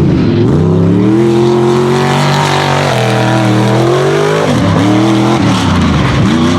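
Mega truck engine revving under throttle: the pitch climbs and holds high for a couple of seconds, drops, rises again, then swings quickly up and down several times near the end as the throttle is worked on and off.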